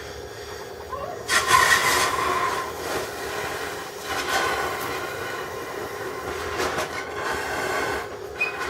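HHO-BOX8 oxyhydrogen welding station running: a steady hum, then about a second in a sudden loud rushing noise with a high squealing tone that stays on.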